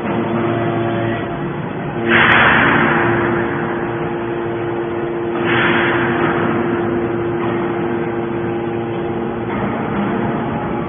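Hydraulic scrap metal baling press running: a steady hum from its pump, with two louder rushing surges, one about two seconds in and one about five and a half seconds in.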